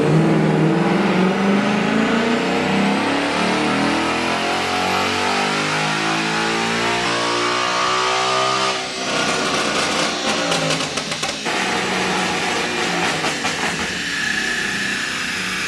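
Tuned Ford Mustang GT V8 on a full-throttle dyno pull: the revs climb steadily for about nine seconds. Then the driver lets off and the exhaust crackles and pops for a couple of seconds before the engine settles to a lower, steady note.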